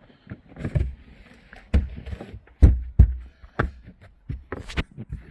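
A run of irregular knocks and thumps from handling things in a car boot around the spare wheel, the heaviest two about two and a half and three seconds in, with rustling between.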